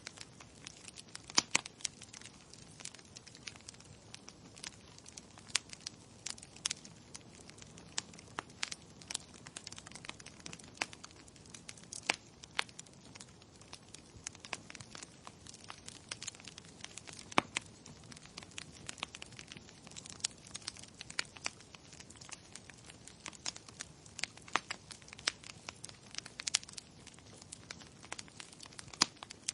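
Wood fire in a fireplace crackling: irregular sharp pops and snaps over a faint steady hiss.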